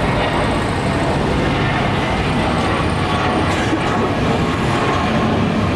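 Jet airliner engines at takeoff thrust: a loud, steady rumble with a hiss over it that holds at one level.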